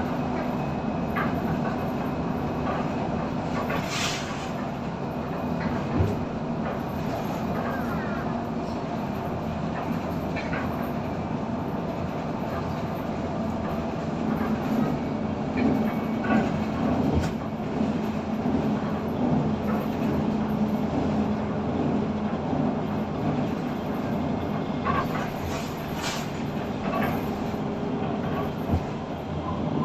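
Steady rumble of a moving vehicle, with scattered light clicks and knocks over it.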